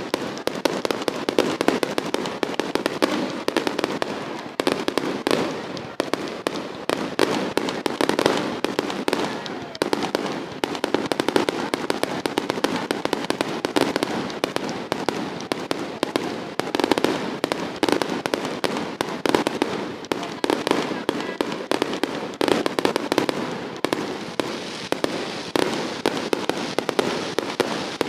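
Dense, continuous crackling of many fireworks and firecrackers going off at once, a steady rapid rattle of sharp pops.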